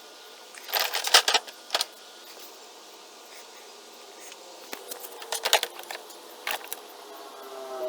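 Short bursts of metallic clinking and rattling from a vacuum pump and its parts being handled while it drains, in two clusters about a second in and again around five to six seconds. A faint steady hum runs underneath.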